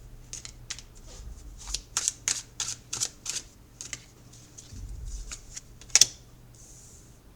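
A deck of tarot cards being shuffled and handled: a quick run of crisp card snaps, thinning out, then one loud snap about six seconds in.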